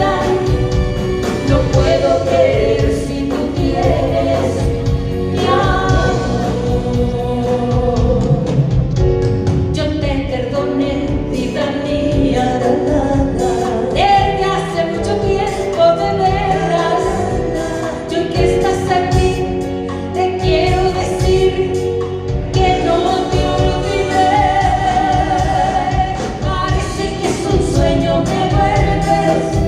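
Live band music with singing over it.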